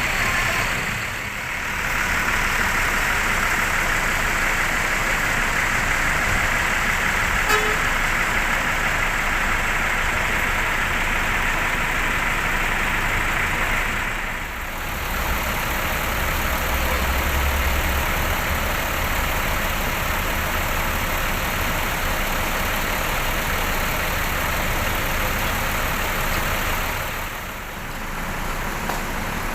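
Steady roar of buses and traffic at a bus terminal. Midway through, a heavy engine runs close by with a deep hum for about twelve seconds.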